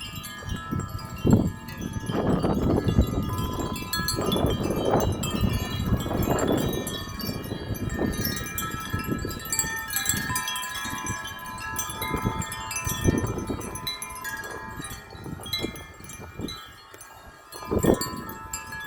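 Metal wind chimes ringing continuously in strong wind, many overlapping sustained tones. Gusts of wind rumble on the microphone swell and fade several times.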